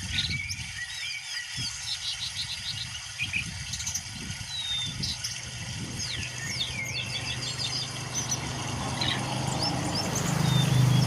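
Caged songbirds chirping and whistling in quick, varied phrases with short sliding notes. A low steady hum grows louder in the last couple of seconds.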